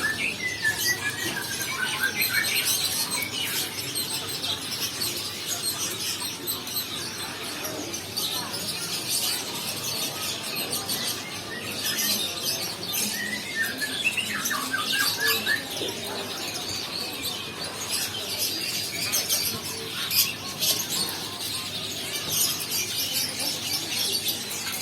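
Coucal chick squealing, with runs of squeaky notes that fall in pitch near the start and again about halfway through, over a steady crackling hiss.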